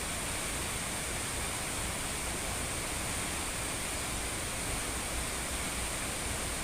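Nungnung waterfall's falling water, a steady unbroken rush of white noise.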